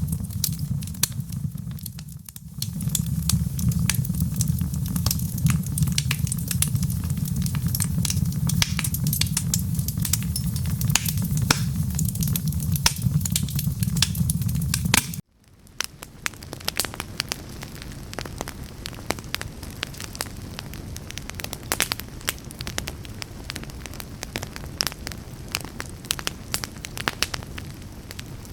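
Wood fire crackling and popping in a fireplace, over a low rumble. About halfway through it cuts out for an instant and resumes as a quieter, thinner crackle without the rumble.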